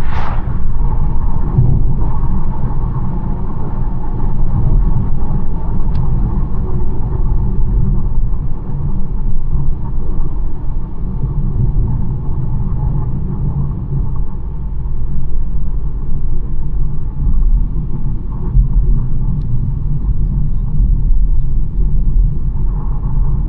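BMW 1 Series on the move: a steady, deep rumble of engine and tyre noise on the road. There is a brief sharper hiss right at the start.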